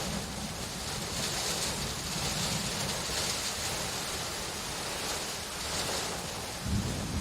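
Steady heavy rain, an even hiss, with a low rumble of thunder swelling up near the end.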